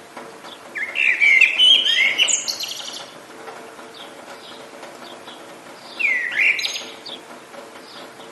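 Songbird singing two loud phrases of quick warbled and trilled notes: a longer one about a second in, a shorter one near six seconds. Faint distant chirps in between.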